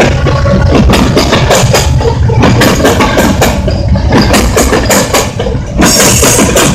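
Union Pacific freight train of covered hoppers passing close by: a loud, steady rumble with a quick, uneven clatter of steel wheels on the rails, and a short burst of hiss about six seconds in.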